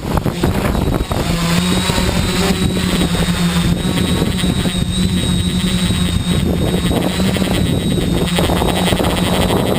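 Tricopter's electric motors and propellers buzzing steadily in flight, holding a pitch from about a second in, with wind buffeting the microphone underneath.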